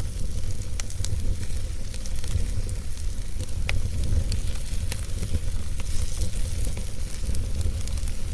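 Wood fire burning in a fireplace: a steady low rumble of flames with scattered sharp crackles and pops, a few louder pops among them.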